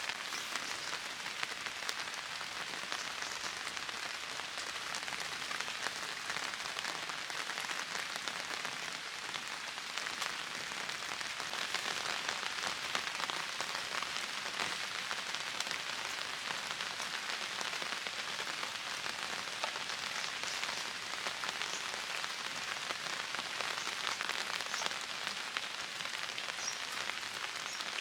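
Steady rain falling: a dense, even hiss of drops with scattered sharper drop hits, unchanging throughout.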